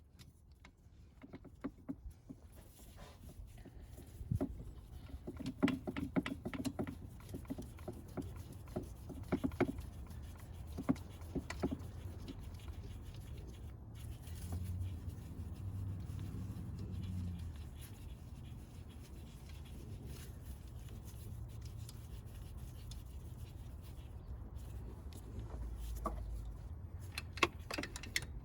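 Irregular clicks and knocks, denser in the first half and again near the end, over a low steady hum.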